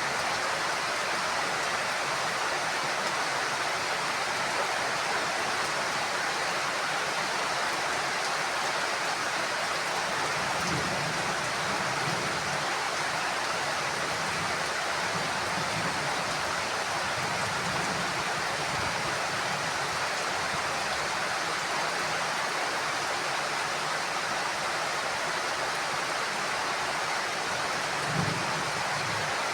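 Heavy rain falling steadily on a roof, an even hiss that does not let up, with a faint low rumble coming and going in the middle and near the end.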